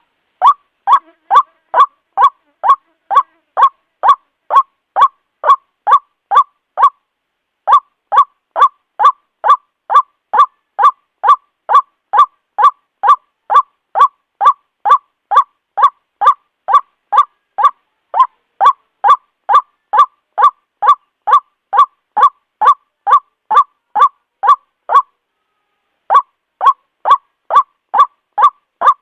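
White-breasted waterhen calling: a long, even run of short 'kuwa' notes at about two a second, broken twice by pauses of a second or so.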